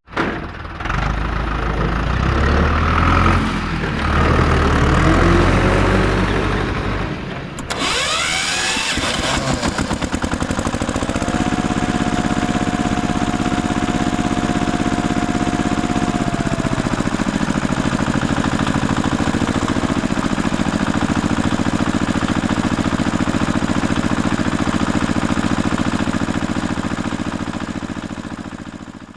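A small motor running steadily with a fast pulsing rattle, with a high whine held for several seconds in the middle. Before that, for the first seven seconds or so, there is a louder, uneven low rumble that cuts off suddenly.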